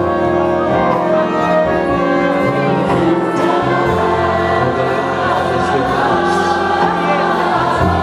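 Gospel worship music: a choir or congregation singing over a steady band accompaniment with a held bass.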